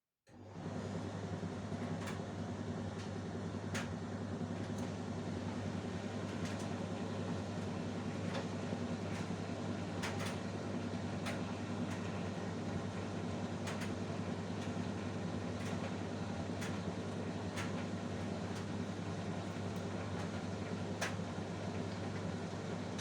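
Whirlpool DDLX 80110 tumble dryer switched on and running, its motor and drum giving a steady hum, with occasional light clicks.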